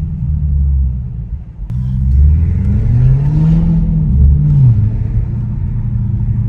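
Straight-piped Audi S7 exhaust rumbling while driving. It dips briefly about a second and a half in, then the revs climb and fall away again around the middle.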